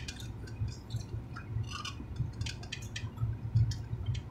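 Close-up chewing of a marinated carrot slice, with many small wet clicks of the mouth over a low steady rumble.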